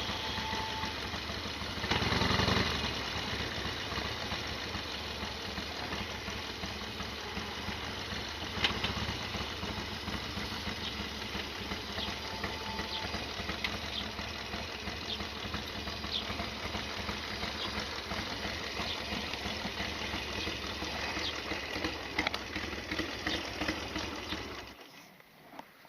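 Harley-Davidson XL1200R Sportster's air-cooled V-twin idling with a clattery mechanical rattle, the owner's "gatapishi" noise. There is a short blip of revs about two seconds in, and the sound cuts off abruptly near the end.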